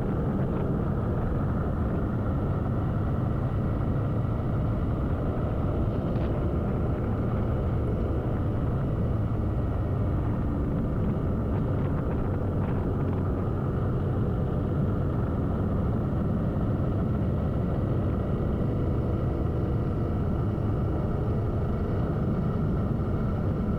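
Motorcycle engine running at a steady cruise, mixed with steady wind and road noise while riding.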